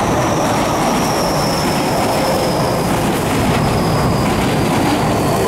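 Ten-car Tokyu electric commuter train pulling in alongside the platform, a steady rumble of running gear with a thin high whine that slowly falls in pitch as it slows.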